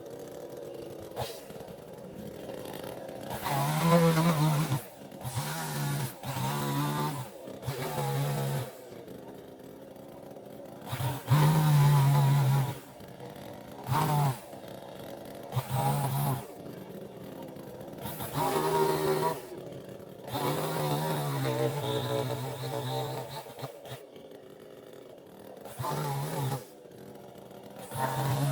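Chainsaw engine revved in about ten short bursts, each dropping back to a quieter idle, with one longer run of about three seconds near the middle.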